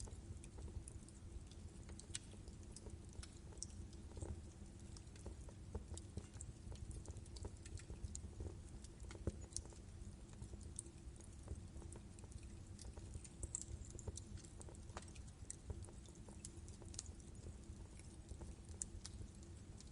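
Wood fire burning in a fireplace, with irregular small crackles and pops over a low rumble.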